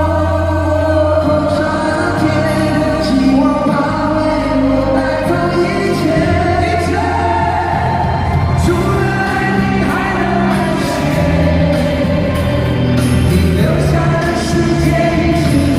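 Live pop ballad performance: male vocals singing long, held notes over a band with steady bass, amplified through a concert sound system.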